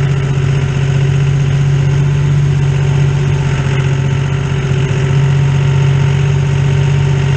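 John Deere tractor engine running steadily at constant speed, a loud even hum.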